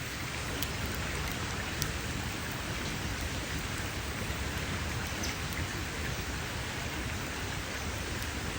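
Campfire burning: a steady hiss and low rumble of flames with a few sharp crackles and pops of burning wood.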